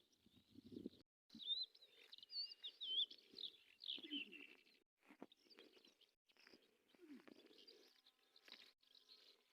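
Small birds chirping and singing: quick warbling high calls in a cluster a second or two in, then scattered shorter chirps, with faint low rustling underneath.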